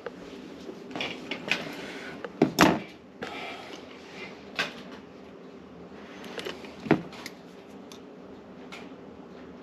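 Scattered knocks and clunks of tools and parts being handled, the loudest a double clunk about two and a half seconds in, over a faint steady hum.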